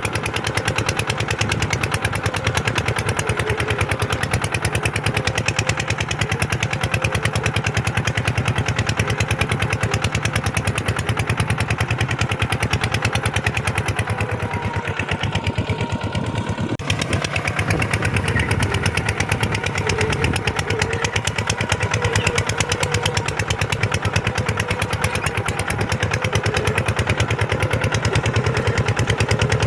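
Kubota tractor's diesel engine running steadily under way, with a rapid, even firing beat.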